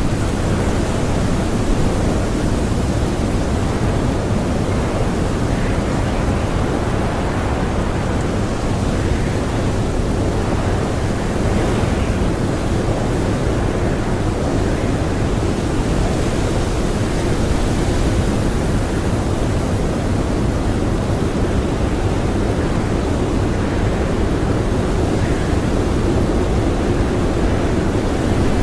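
Blizzard wind blowing steadily: a dense, even rush weighted to the low end, without distinct gusts or breaks.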